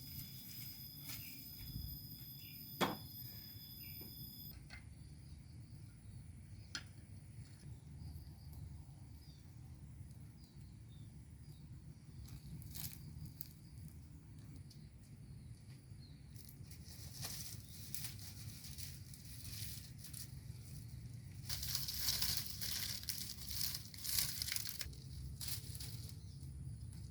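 Rustling and crackling of leaves and plants with scattered sharp snaps and footsteps as a person walks through a garden, busiest in the second half. A steady high whine is heard over it for the first few seconds and cuts off suddenly.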